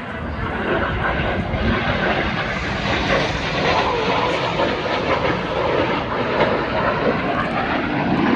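Jet noise from BAE Hawk T1 jets flying a formation display, their Adour turbofans making a loud, steady roar. The sound builds over the first second, then holds, with faint sliding pitch changes as the jets pass.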